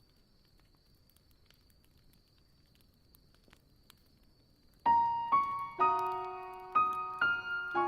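Faint campfire crackling, a few scattered small pops. About five seconds in, a solo piano begins a slow melody of single struck notes that ring and fade.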